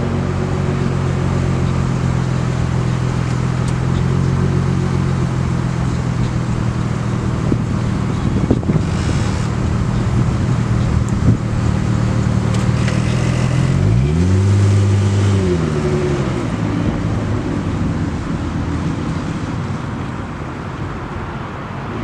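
1999 Plymouth Prowler's 3.5-litre 24-valve V6 running steadily, revved once about 14 seconds in, rising in pitch and falling back.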